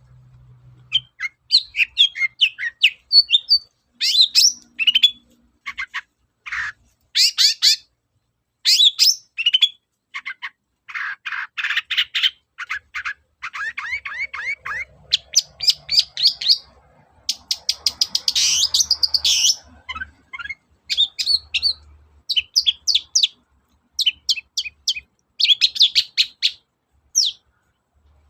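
Long-tailed shrike singing a fast, varied song of short chirps and trills in quick bursts with short pauses, with a harsh, scratchy run of notes about two-thirds of the way through.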